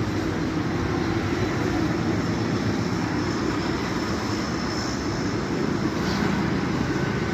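Heavy diesel machine engine running steadily with a low, even rumble.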